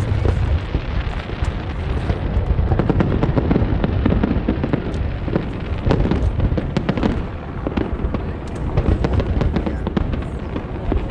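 Large aerial fireworks display with shells going off in quick succession: an unbroken low rumble of booms overlaid with many sharp crackles.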